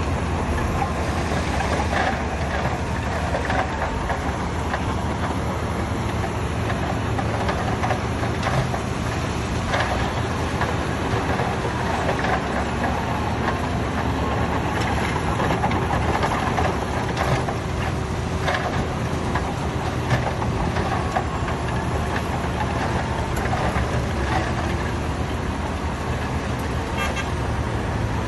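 Heavy earthmoving machinery's diesel engine running steadily under load, with scattered knocks and clanks throughout.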